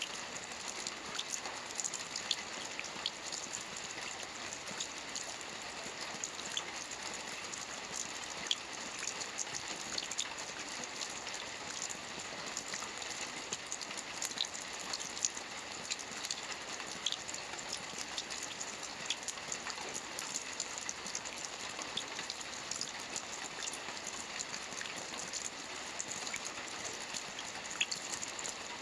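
Steady rain falling on a lake's surface: an even hiss with many scattered small drop ticks.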